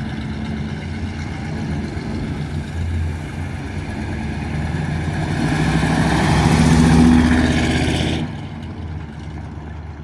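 1970 Oldsmobile Cutlass muscle car engine running, then revving up with rising pitch and loudness from about five seconds in. It cuts off sharply about eight seconds in to a quieter engine rumble.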